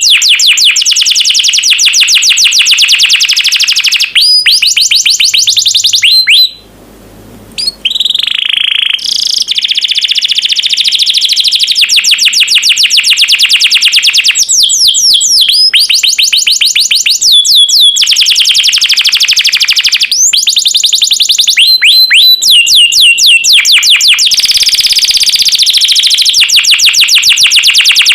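Domestic canary singing a long, loud song of rapid trills and quick sweeping notes, with a short break about six and a half seconds in and a steadier buzzing roll near the end.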